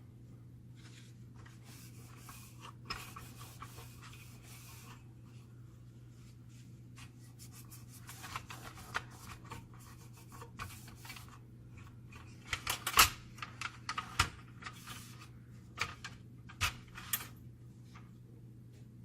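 Hands handling the parts of a copier fuser unit: soft scraping and rubbing, then a run of sharp clicks and knocks of small hard parts, loudest about two-thirds of the way through. A steady low hum runs underneath.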